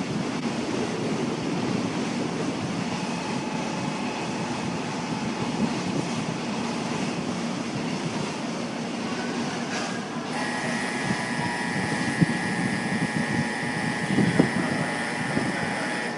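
Doctor Yellow, the 923-series Shinkansen track-inspection train, running into a station with a steady rushing rumble. About ten seconds in, a steady high whine of several tones joins it and holds.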